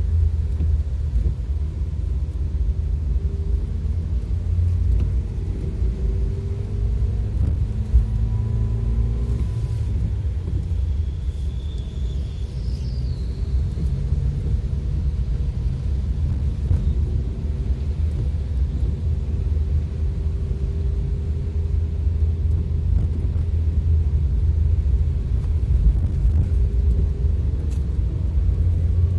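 Steady low rumble of a vehicle driving on a rain-soaked road: engine and tyre noise with an even hiss above it, plus a brief faint high whine about halfway through.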